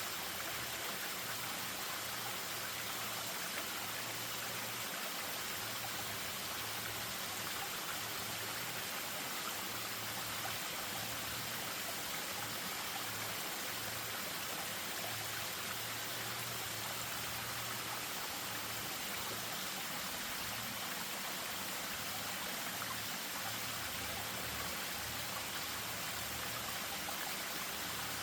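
Spring-fed stream running over a small waterfall, a steady rush of water with no pauses or changes.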